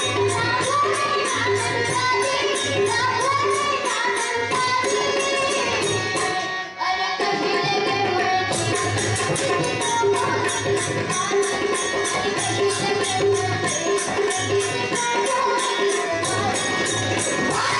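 Devotional bhajan sung by a girls' troupe with tabla accompaniment and a steady rhythm of high jingling strokes about four a second, dropping out for a moment about seven seconds in.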